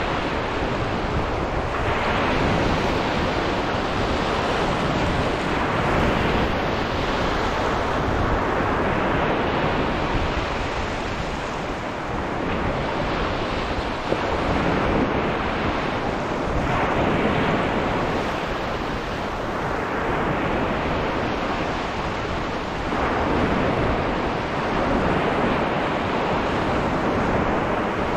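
Sea waves washing onto a sandy beach, the surf swelling and easing every few seconds, with wind rumbling on the microphone.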